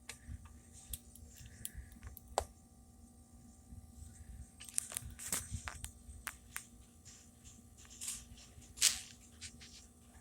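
Scattered clicks, taps and rustles of hands handling things, with a sharp click about two seconds in and a louder rustle near the end, over a faint steady hum.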